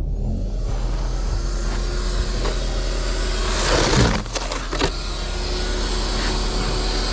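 A car running steadily, with a louder rushing swell about four seconds in.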